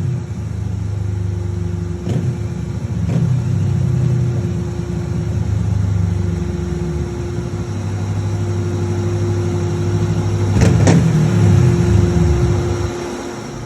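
Kawasaki Ninja 650's parallel-twin engine running through a full Akrapovic titanium exhaust after a tune, idling with short throttle blips about two and three seconds in and a bigger rev that rises and falls near the end.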